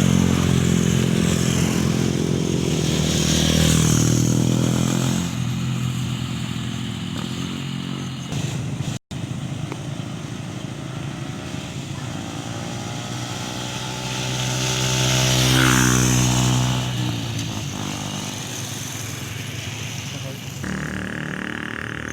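Yamaha Sniper 150 motorcycle with a Mody5 aftermarket power pipe exhaust, its single-cylinder four-stroke engine running as it is ridden past twice. Each pass swells louder and then drops in pitch as it goes by, the first peaking about four seconds in, the second past the middle. The exhaust note is bassy.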